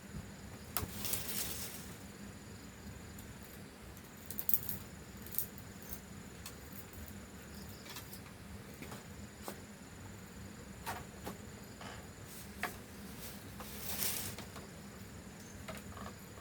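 Faint outdoor ambience with a thin, steady insect-like tone, scattered light clicks and two brief rustles, about a second in and near the end.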